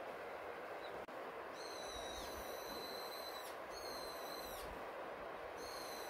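A bird giving a run of long, flat, high-pitched calls, each up to about a second, starting about one and a half seconds in. Underneath is a steady hiss of winter rain and flowing river water.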